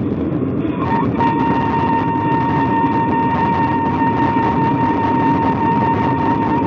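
Bilür, an end-blown shepherd's flute, holding one long steady note that begins about a second in, over a loud steady low rumble.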